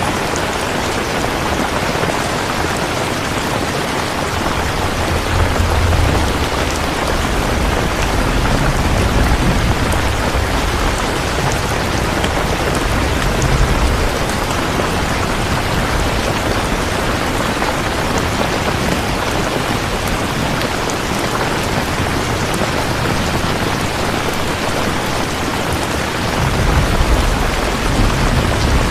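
Steady, dense rainfall with no break. Low rumbles of distant thunder swell in and out a few times, in the first half and again near the end.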